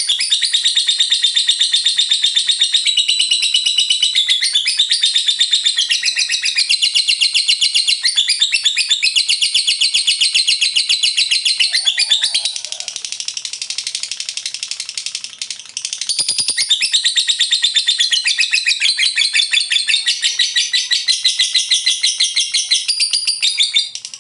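Lovebird singing its long 'ngekek' chatter: a fast, unbroken run of shrill repeated notes, softer for a few seconds past the middle.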